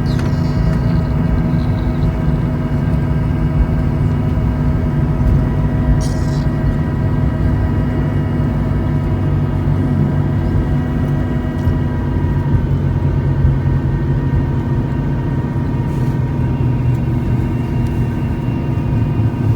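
Jet airliner cabin noise: a steady low rumble with several steady engine whine tones, a few of which drop slightly in pitch about twelve seconds in. A brief click about six seconds in.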